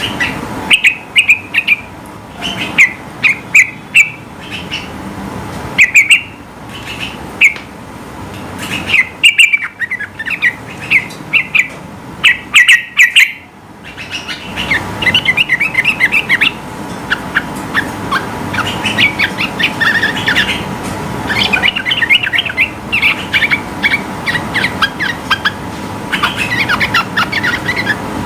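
Yellow-vented bulbul (trucukan) singing: loud clusters of short chirping notes, then from about halfway through a faster, denser run of rapid chatter. A faint steady tone runs underneath.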